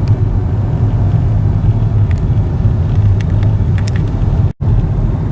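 Steady low rumble of road and engine noise inside a moving car, with a few faint clicks and a brief dropout near the end.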